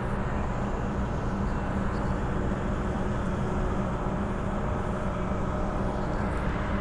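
Transperth Bombardier B-series electric multiple unit running along the track, heard from inside the carriage: a steady rumble of wheels on rails with a faint, even hum.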